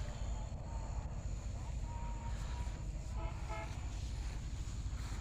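Steady low rumble with a short horn toot a little past three seconds in, and faint thin tones wavering around it.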